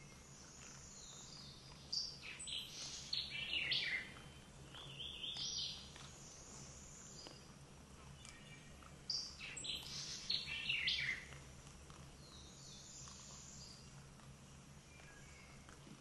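Songbirds chirping and singing in two bouts of quick high notes, about two seconds in and again about nine seconds in, over a faint steady low hum.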